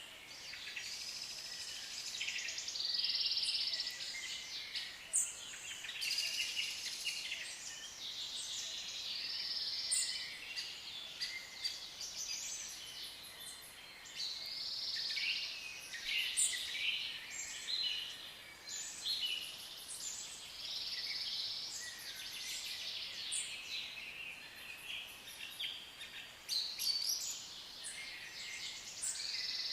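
A flock of African lovebirds chattering: many overlapping high-pitched chirps and squeaks, going on without a break.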